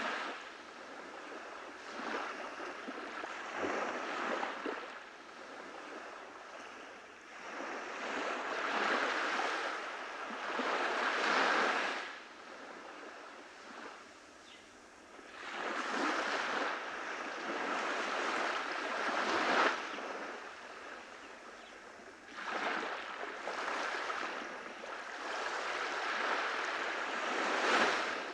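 Small waves breaking and washing up a beach, the surf swelling and falling back every few seconds.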